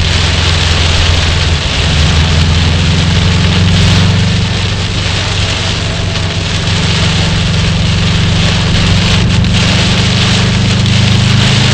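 Car engine running steadily under a constant hiss of heavy rain on the car, heard from inside the cabin while driving through a hurricane downpour.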